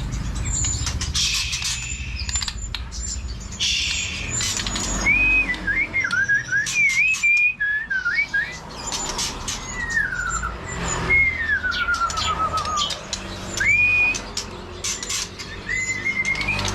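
White-rumped shama singing a varied song of clear whistled phrases that rise and fall, starting about five seconds in. Other caged birds chirp high and thin throughout, with many short clicking notes.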